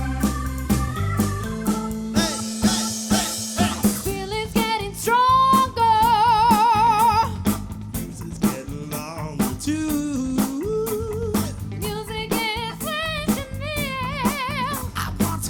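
Live soul band playing: a drum kit keeps a steady beat under organ chords, and from about four seconds in a lead line holds long notes with a wide vibrato.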